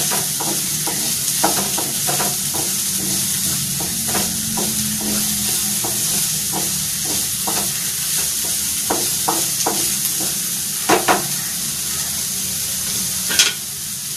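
Chopped onions and green chillies sizzling in hot oil in a nonstick frying pan, stirred with a spatula that scrapes and taps the pan again and again. The stirring stops near the end, leaving the sizzle.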